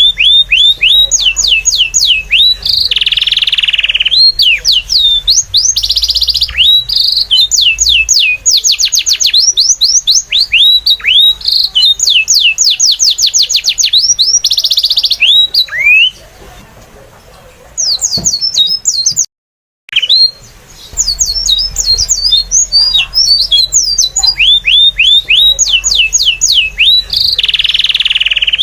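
Bird calls: rapid runs of short, high chirps, each falling in pitch, repeated over and over. They break off twice past the middle, once into a quieter stretch and then into a moment of silence, before starting up again.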